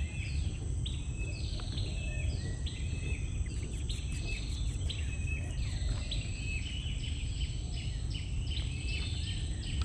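Birds calling: many short chirps sliding down in pitch, overlapping and repeating every half second or so, over a steady low rumble of background noise.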